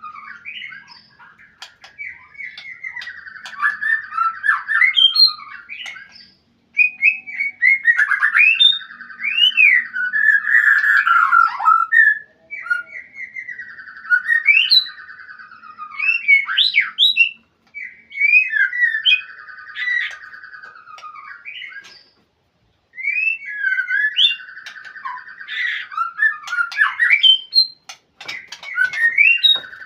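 White-rumped shama (murai batu) singing a challenge song at a rival: loud phrases of a few seconds each, made of rapid rattling notes and sharp rising and falling whistles, separated by short pauses.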